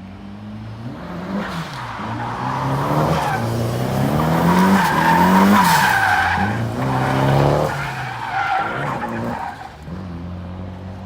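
A drift car sliding: the engine revs up and down several times while the tires squeal. It is loudest around the middle and eases off near the end.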